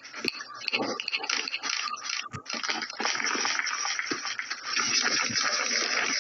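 A steady rushing hiss that fills in about three seconds in, after a stretch of scattered clatter and brief voices.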